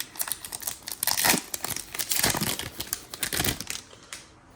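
Plastic wrapper of a Score football trading card pack crinkling as it is torn open, a dense run of rapid crackles that dies away near the end.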